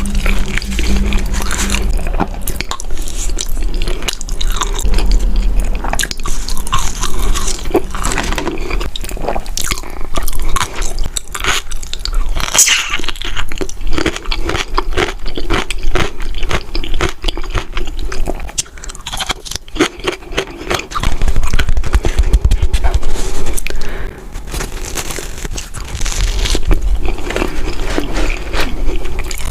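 Close-miked eating: a person biting into and chewing crunchy food, with many sharp, irregular crunches.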